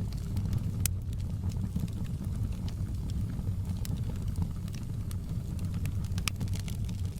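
Wood fire burning with a steady low rumble and scattered sharp crackles and pops, a few each second.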